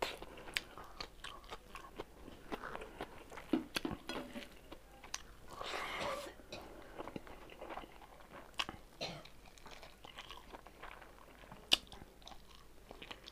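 Close-miked chewing and mouth sounds of someone eating rice and smoked pork by hand: scattered wet clicks and smacks, with a brief louder rustle about six seconds in.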